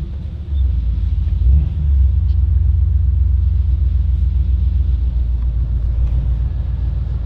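Vehicle engine running with a steady low rumble, dipping briefly at the start.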